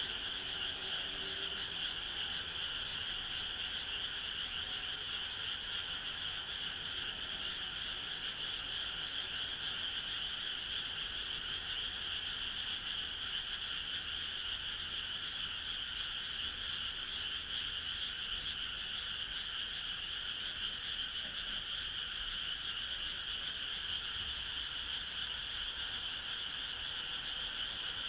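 Dense frog chorus, many frogs calling together in a steady, unbroken high-pitched wash of calls with no pauses.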